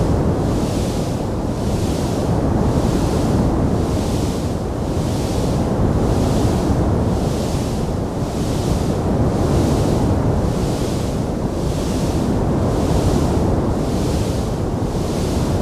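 Wood fire burning in a stone fireplace: a steady, dense, rushing roar, with a hiss above it that swells and fades a little more than once a second.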